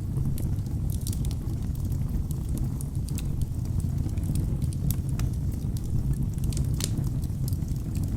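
Wood fire burning in a fireplace: a steady low rumble of flames with frequent sharp crackles and pops from the logs, one louder pop about seven seconds in.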